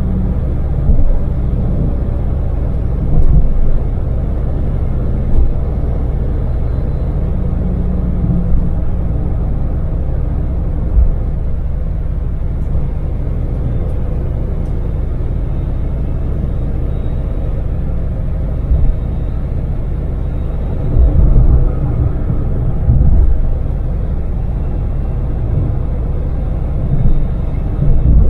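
Daewoo Damas LPG mini van's small three-cylinder engine and tyres running steadily at expressway speed, a constant low rumble with a faint engine hum. A few brief low thumps come through, near the start and again about three-quarters of the way in.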